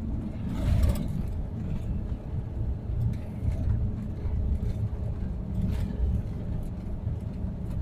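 Twin-turbocharged 6.0 L LQ4 V8 pickup truck driving at low load: a steady low engine and road rumble, with a brief swell just before a second in.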